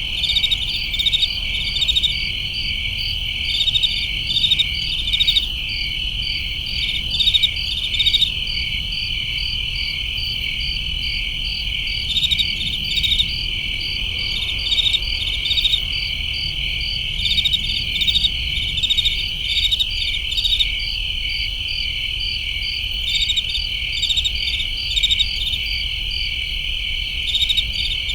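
A chorus of crickets chirping: a steady high trill, with pulsed chirps rising over it in short groups about every second or two. A faint low rumble lies beneath.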